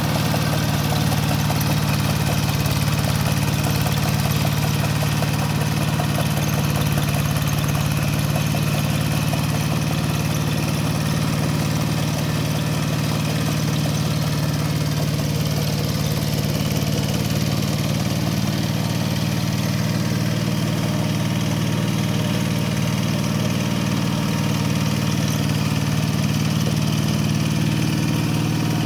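Kubota K700 power tiller's single-cylinder diesel engine running steadily at an even speed.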